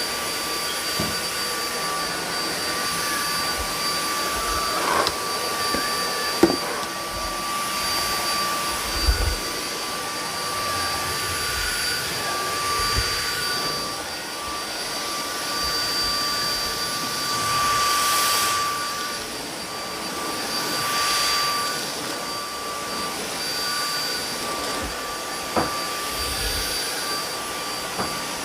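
Samsung Jet 75 cordless stick vacuum running at its highest power setting: a steady rushing suction with a constant high whine, swelling louder a couple of times as it is pushed along the floor. There are a few light knocks of the floor head.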